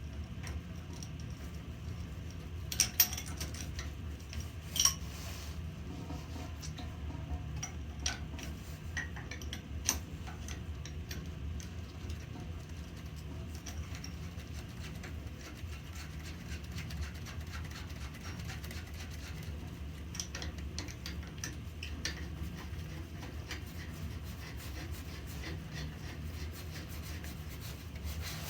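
Scattered small clinks and taps of metal and glass as a steam boiler's gauge-glass fittings are handled and worked on by hand, the two sharpest a few seconds in, over a steady low hum.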